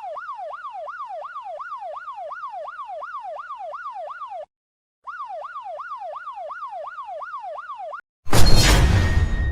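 Police siren in a fast yelp, its pitch sweeping up and down about three times a second, briefly cutting out about halfway through. Near the end a loud crash-like bang breaks in and fades away.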